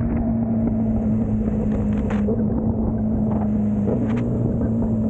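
Sport motorcycle engine running at a steady, held speed while riding, with wind noise on the microphone.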